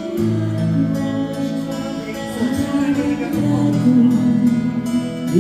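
A voice singing a slow Korean ballad over guitar accompaniment, holding long notes.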